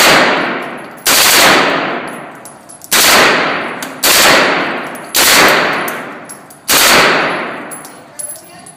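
Gunshots fired singly, six of them spaced about one to one and a half seconds apart. Each loud crack is followed by a long echoing decay in an indoor shooting range.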